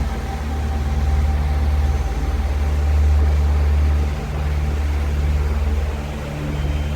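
Motorboat engine running steadily, heavy and low.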